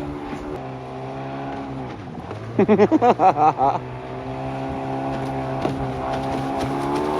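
Vintage Wetbike's engine running steadily out on the water, its pitch dipping about half a second in and then climbing slowly over the last few seconds. A person shouts loudly about halfway through.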